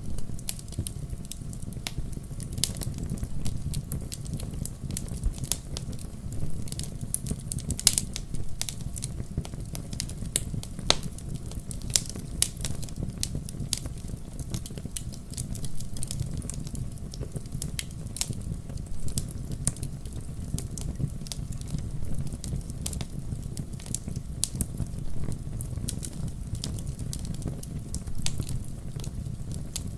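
Wood campfire burning: irregular crackles and sharp pops of the burning wood over a steady low rumble of the flames.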